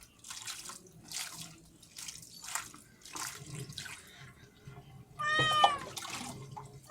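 Wet cat being bathed: water splashes and pours in short bursts about once a second, and the cat gives one loud, drawn-out meow about five seconds in.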